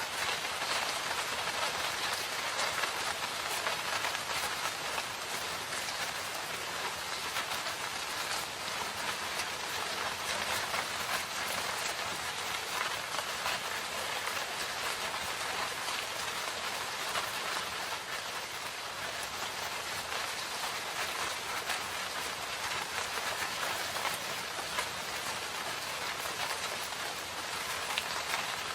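Steady rain falling in a forest: a dense, even hiss of rainfall with many separate drop hits ticking through it.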